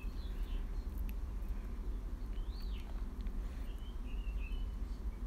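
A small bird calling three times in short warbling whistles that rise and fall, over a steady low rumble.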